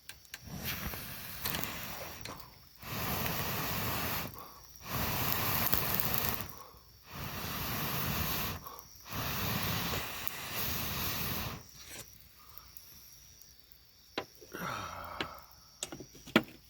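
About five long hissing rushes of air, each a couple of seconds long with short breaks between, like breath blown in steady puffs into a campfire to liven the flames; a few light clicks follow near the end.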